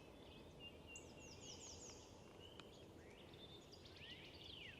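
Faint, distant birdsong over a low background hiss: a quick run of high descending notes about a second in, then near the end a series of repeated downward-slurred whistles, the song of a northern cardinal.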